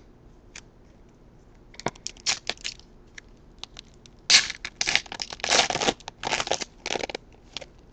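Trading-card pack wrapper being torn open and crinkled: a few scattered crackles about two seconds in, then a longer stretch of tearing and crinkling from about four seconds to seven.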